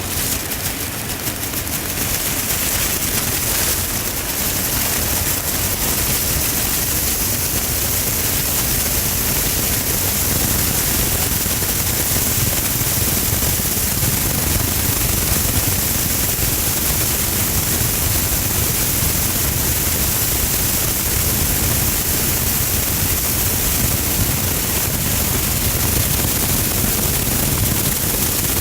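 Heavy rain falling on a car's windshield and roof: a dense, steady patter.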